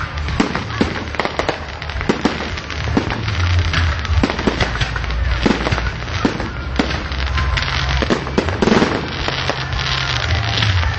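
Firework display in full swing: many shells bursting with sharp bangs at irregular intervals over continuous crackling, with a low rumble beneath.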